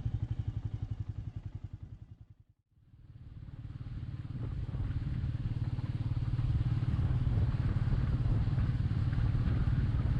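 Royal Enfield Meteor 350's single-cylinder engine running, its separate firing beats plain at first. The sound fades out to silence about two and a half seconds in, then fades back up to a steady engine note.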